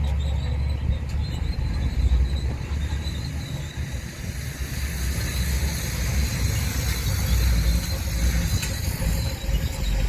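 Bulldozer's diesel engine running steadily as a deep low rumble, with the metal whine and squeal of its steel crawler tracks rising in the second half.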